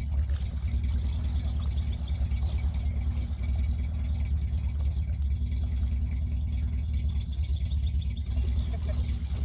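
A car engine running steadily at low revs, a deep, even rumble.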